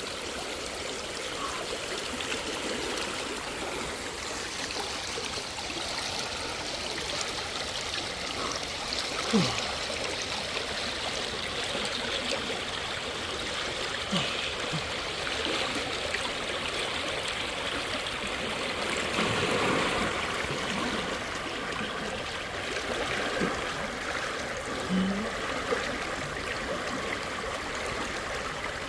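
Steady rush of fast-flowing water, a stream or falls running over rocks. A few short knocks sound over it, the loudest about nine seconds in.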